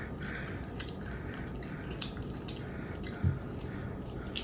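Someone chewing a bite of crispy fried chicken, small wet mouth clicks scattered over a steady room hum, with one brief low sound about three seconds in.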